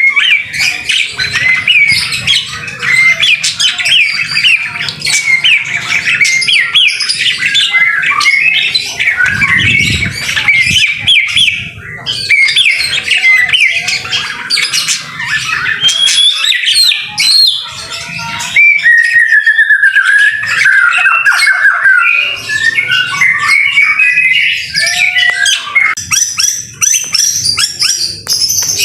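White-rumped shama (murai batu) singing in full voice: a fast, varied run of chirps, trills and clicking notes, with a stretch of longer warbled whistles about two-thirds of the way through.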